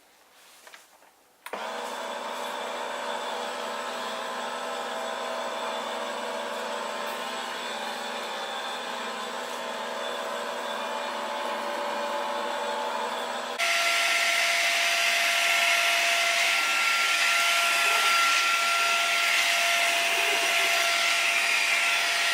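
Atocare Perfect Everyone cordless vacuum cleaner switched on about a second and a half in, its motor running with a steady whine. About fourteen seconds in it steps up suddenly to a louder, higher-pitched setting.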